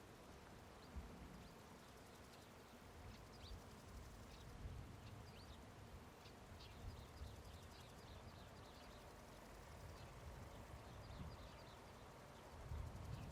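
Faint outdoor meadow ambience: small birds give short, high chirps scattered through it, clustering in a quick run near the middle. Beneath them is a low rumble that grows louder near the end.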